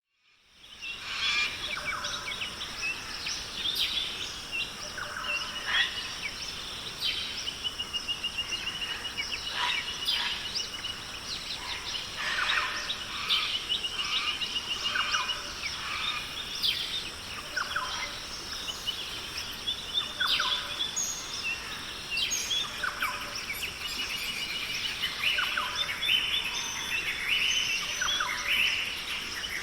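Rainforest ambience: many birds chirping and trilling at once over a steady high insect hum, fading in over the first second.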